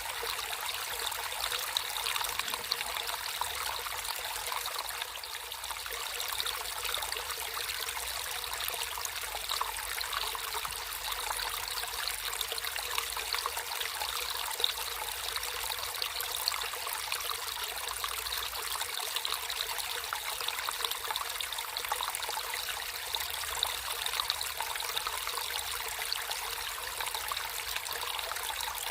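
Water trickling and splashing steadily in a small stream, a continuous bright babble with no pauses.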